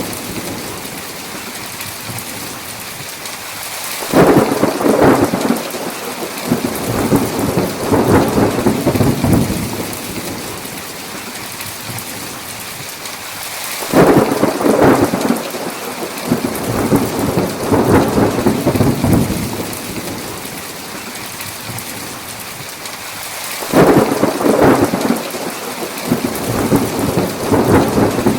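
Steady heavy rain with thunder. Three times, about ten seconds apart, the thunder breaks in suddenly and rolls on in swells for several seconds.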